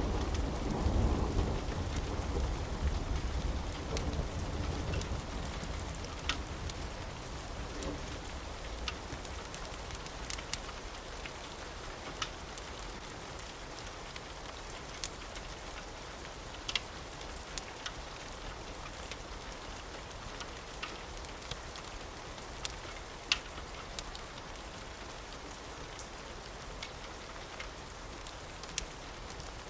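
Steady rain with a low thunder rumble that fades away over the first several seconds, and scattered sharp ticks over the hiss.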